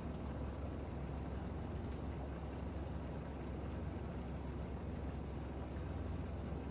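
Steady waterfront harbour ambience: a constant low hum, like a moored vessel's engine or generator, under an even wash of distant noise.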